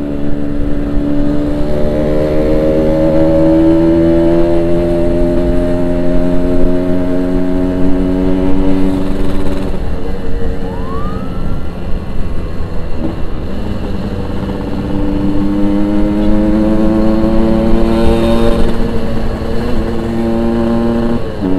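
Yamaha RX-King's two-stroke single-cylinder engine on its stock exhaust, pulling under load while riding: the engine note climbs steadily for about ten seconds, backs off, then climbs again through the second half before dropping away near the end.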